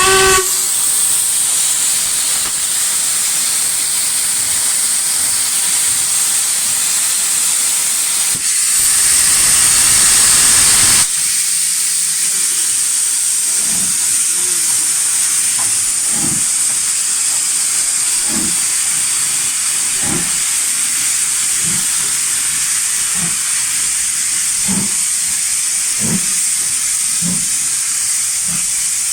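Steam locomotive hissing steadily, with a louder rush of steam for a couple of seconds about nine seconds in. In the second half, faint short low thuds come every second or two under the hiss.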